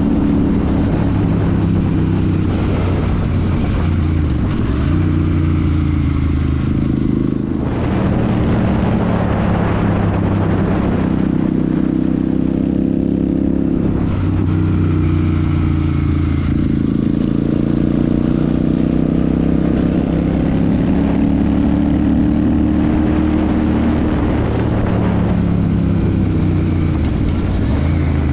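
Royal Enfield Super Meteor 650's parallel-twin engine and exhaust under way on the road. The engine note drops and rises several times as the throttle is closed and opened again, with a climbing note partway through.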